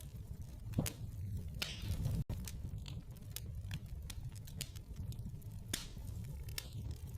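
Wood fire burning in a fireplace, crackling with irregular sharp pops over a low steady rumble of the flames. The sound drops out for an instant about two seconds in.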